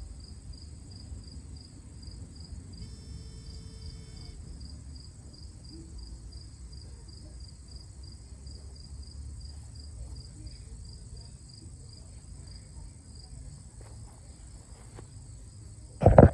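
Insect chirping in an even, high-pitched pulse about two to three times a second over a steady high hiss and a low rumble. A loud, sudden knock comes near the end.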